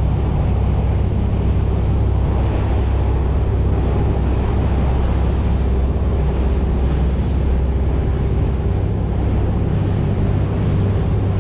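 A motorboat under way: its engine drones steadily at cruising speed, with water rushing past the hull and wind buffeting the microphone.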